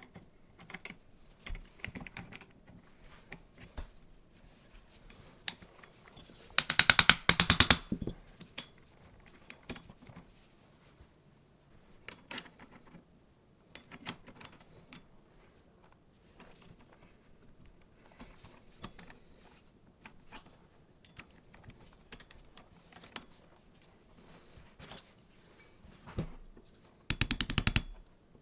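Hand workshop work on metal parts: scattered small clinks and taps, with two short bursts of rapid ratcheting clicks, one about seven seconds in and one near the end.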